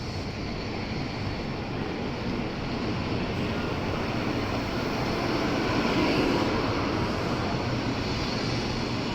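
N700A Shinkansen train pulling in alongside the platform: a steady rushing rumble that builds and peaks about six seconds in.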